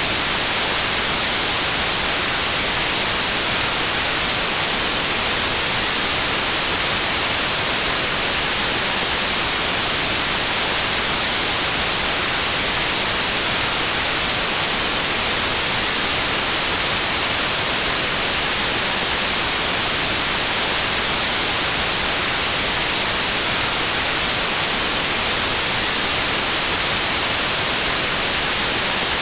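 Steady white noise: an even, hissing rush that does not change, brightest in the treble.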